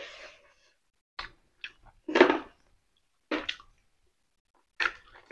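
Intermittent chewing and lip-smacking from people eating with their hands, in short separate bursts, the loudest about two seconds in.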